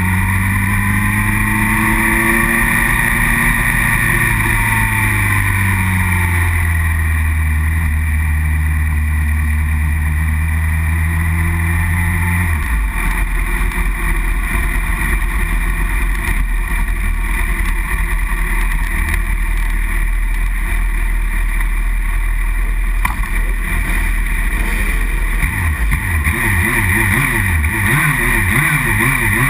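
Racing superbike's engine running hard under way, its pitch rising and falling with throttle and gear changes, over a steady rush of wind noise. The engine note changes abruptly about twelve seconds in, and the pitch wavers quickly near the end.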